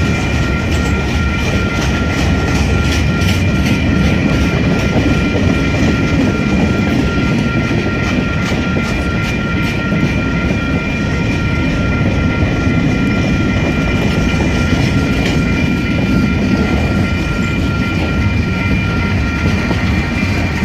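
Freight cars rolling past on the rails: a steady loud rumble with wheel clicks over the rail joints and a steady high squeal over it.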